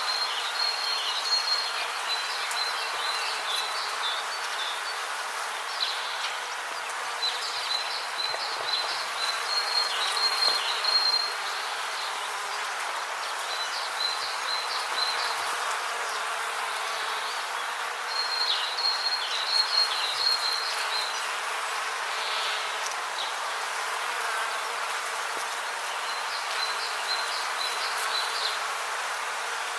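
Rainforest ambience: a steady hiss under bouts of high, rapid chirping calls that start and stop every few seconds, each bout lasting about two to four seconds.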